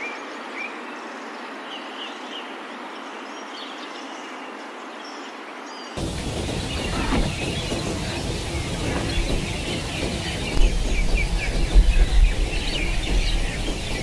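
Small birds chirping over a steady outdoor hiss. About six seconds in, the background changes abruptly to a louder one with a low rumble and more frequent chirps.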